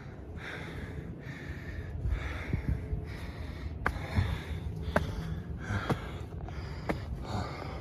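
A man breathing hard and rhythmically, about one breath a second, out of breath from climbing steep steps. A few short, sharp taps sound in the second half.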